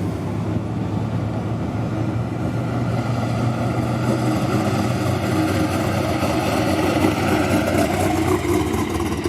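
A car engine running, its sound building and growing louder over the second half.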